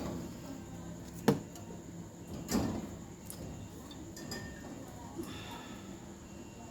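A sharp click, then a duller knock about a second later, like parts or tools being handled, over a steady low background hum.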